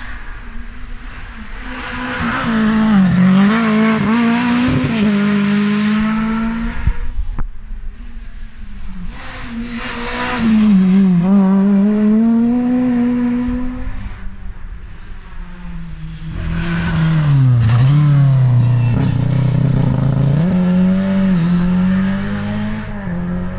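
Rally car engines at full stage pace, heard in three loud stretches. In each one the engine note drops as the car brakes and changes down, then climbs again as it accelerates away.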